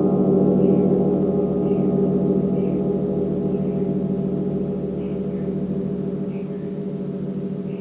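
A large gong ringing on after a strike, its many overlapping tones pulsing and wavering as they slowly fade.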